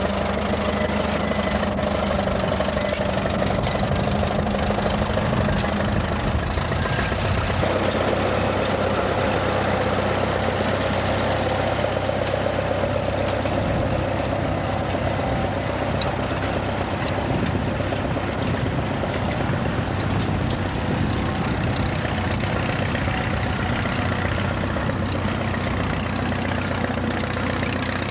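Vintage tractor engine running steadily, its note changing about seven and a half seconds in.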